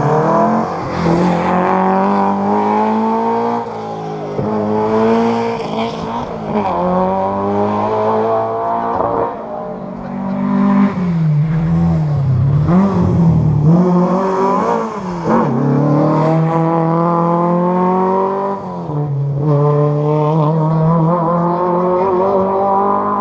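Historic rally car engine at full throttle, climbing in pitch and dropping back at each upshift, about every three seconds. Around the middle the revs fall and waver as it slows, then it pulls away again through the gears.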